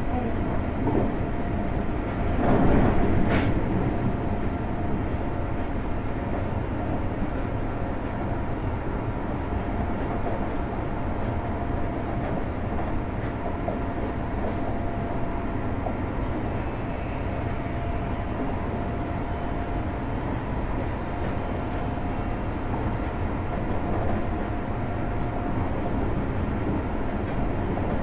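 Interior running sound of a JR Hokkaido 733 series electric multiple unit's motor car cruising between stations: a steady rumble of wheels on rail and running gear. It swells into a brief louder rush about two to three seconds in, and a faint steady whine runs through the middle stretch.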